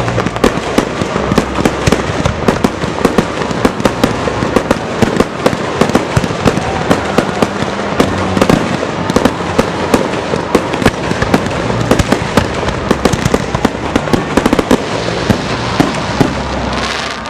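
Fireworks going off in a rapid, continuous barrage of bangs and crackles, several bursts a second.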